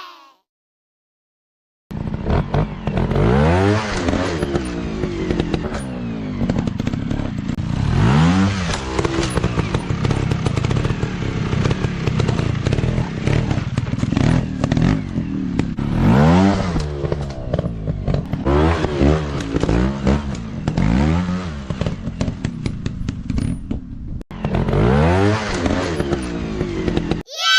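Off-road dirt bike engines revving hard, the pitch repeatedly rising and dropping as the throttle is worked. The engines come in about two seconds in after a moment of silence and cut out briefly near the end.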